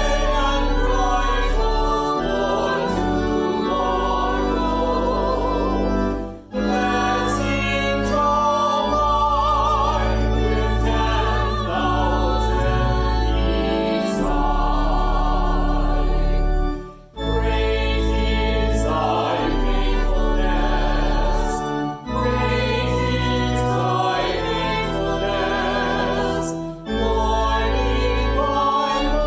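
A choir singing a hymn over held low accompaniment notes. The voices have vibrato, and the music moves in phrases separated by brief pauses, four times.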